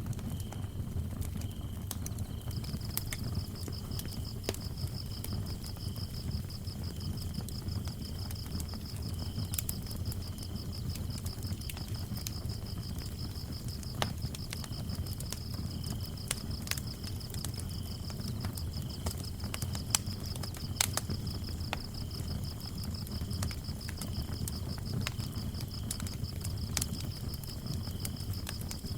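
Wood fire crackling, with scattered sharp pops over a low steady rumble, while crickets chirp: one high, rapidly pulsed trill comes in a few seconds in and runs on unbroken, and a lower cricket chirps in short broken phrases throughout.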